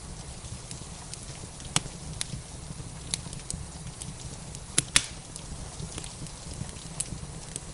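Wood fire in a fireplace crackling, with scattered sharp pops, the loudest a pair about five seconds in, over a steady hiss of rain.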